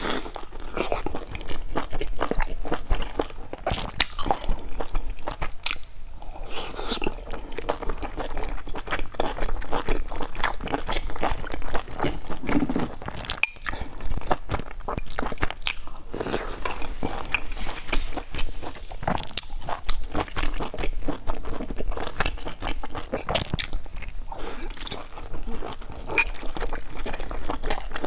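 Close-miked chewing and biting of soft steamed buns, a dense irregular run of wet mouth clicks throughout.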